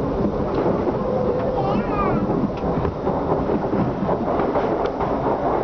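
Bangkok BTS Skytrain car running on the elevated track, heard from inside as a steady loud rumble, with another train rushing past close alongside on the next track partway through.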